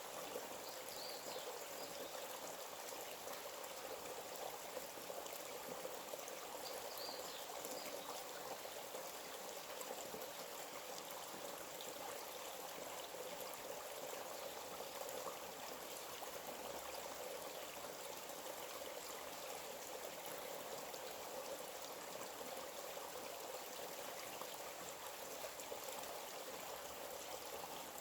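Forest stream running steadily, an even rush of flowing water. Two faint brief high chirps sound over it, about a second in and again around seven seconds.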